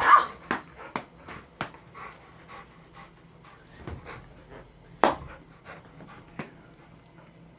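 A dog panting while sharp taps and knocks go off at irregular intervals, a loud one at the start and another about five seconds in.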